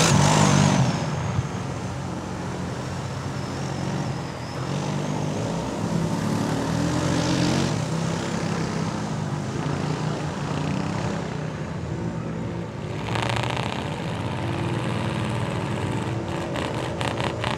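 Off-road vehicle engines running and revving through mud, loudest at the start, with rapid regular pulses from an engine near the end.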